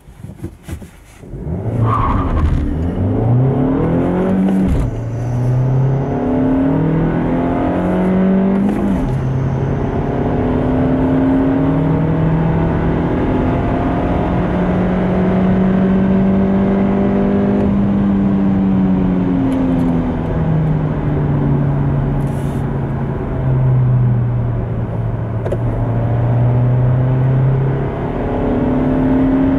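Seat Leon 1.4 TSI turbocharged four-cylinder petrol engine accelerating hard through the gears. The pitch climbs and drops at upshifts about five and nine seconds in, then makes a long steady pull in the next gear. After that the pitch falls as the car slows, and it starts rising again near the end.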